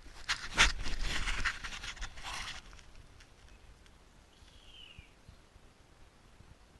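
A few sharp knocks with scraping and rustling over the first couple of seconds, then quiet, with one short falling chirp a little before the middle.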